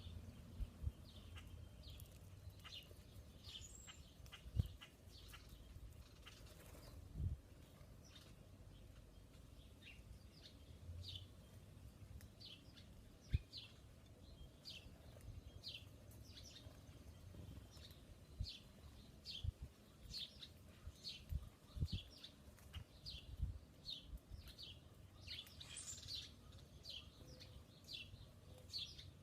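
A small songbird chirping over and over: short, high, falling chirps, a few at first, then a steady run of about two a second. A few dull low thumps are heard between them.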